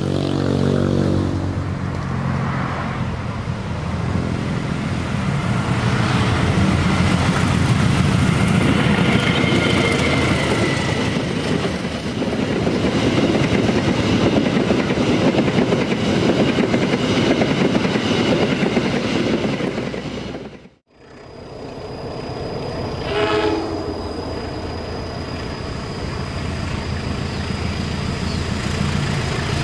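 A passenger train runs past at speed: a loud, steady rush and clatter of wheels on rail that builds and then fades. After an abrupt cut, a diesel locomotive approaches with its engine humming and gives a short horn blast.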